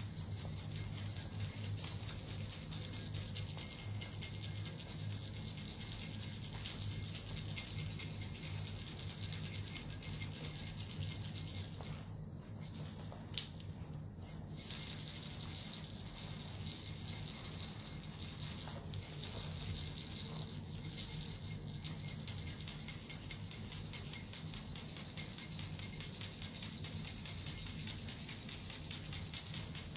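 Small suzu jingle bells and a metal rattle shaken continuously in a fast, dense jingle, with a brief lull about twelve seconds in before the shaking picks up again.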